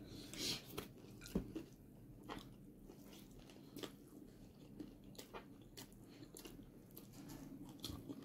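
A person chewing and crunching food, with many small, irregular mouth clicks and crunches.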